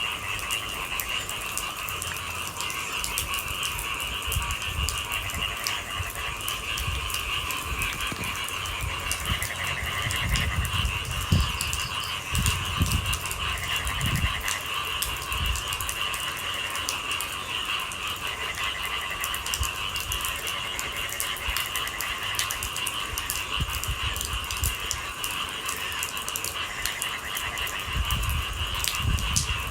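Rain pattering as a dense scatter of drop clicks over a steady, high-pitched chorus of night-calling animals, with a few low thuds about ten to fourteen seconds in and again near the end.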